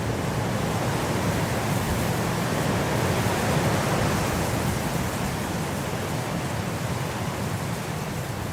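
Winter wind blowing as a steady rushing noise, swelling gently to a gust about three to four seconds in and easing off a little.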